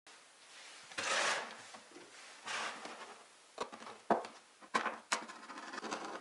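Thin plastic of a large water bottle being rubbed and cut with a small knife: two short scraping swishes, then several sharp crackling clicks as the blade works into the plastic wall.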